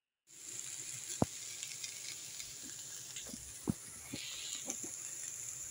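Sliced bitter gourd (caraile) frying in oil in a pan, a steady sizzling hiss with a few single sharp clicks.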